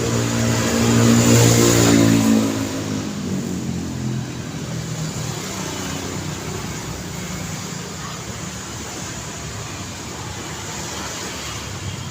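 A motor vehicle's engine passes close by, loudest about a second or two in, its pitch dropping slightly as it goes by. It fades into a steady hum of road traffic.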